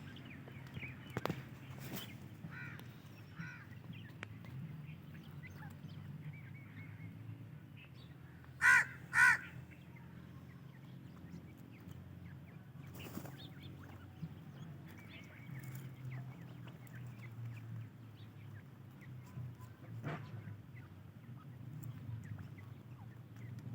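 Teetar (francolin) chicks calling: faint short chirps, then two loud harsh calls in quick succession a little under nine seconds in.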